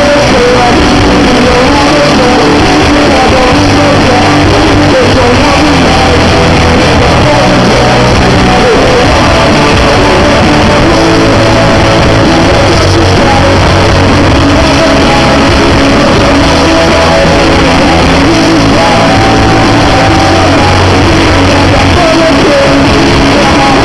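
Live rock band playing loud, with a lead vocal singing over guitars, bass and drums. The recording sits near its loudness limit throughout.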